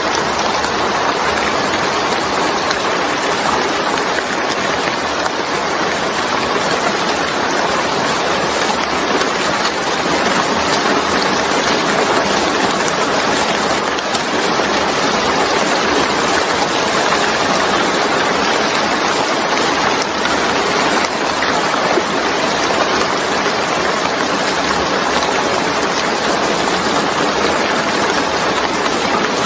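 Steady heavy rain falling, a dense even hiss of drops with no distinct patter or thunder.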